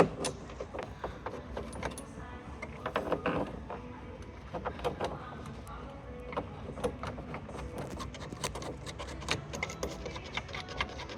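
Irregular small metallic clicks, taps and rattles as bolts are handled and turned into the bed frame's fittings.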